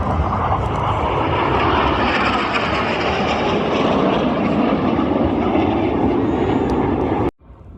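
Loud, steady engine noise of a fixed-wing aircraft flying past, which stops abruptly near the end.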